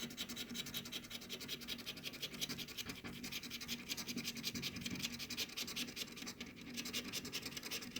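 Rapid back-and-forth scraping of a coin or scraper across a scratch-off lottery ticket, rubbing off the latex coating in a fast, even rhythm of strokes.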